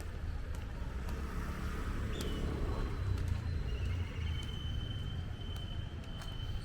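Outdoor ambience: a steady low rumble with a few faint clicks. A short high chirp comes about two seconds in, and from about four seconds a thin, steady high-pitched tone begins and holds.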